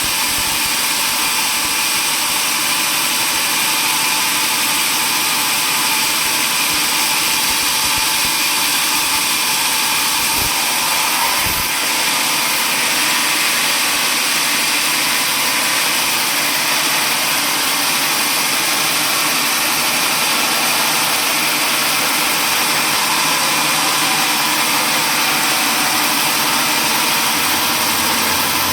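Sawmill machinery running steadily: a loud, unchanging machine noise, mostly hiss-like and high, with no breaks or cuts starting or stopping.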